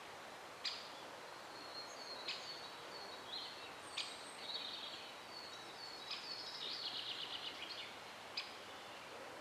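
Faint outdoor ambience with small birds calling: scattered short, high chirps and a quick rattling trill a little past the middle.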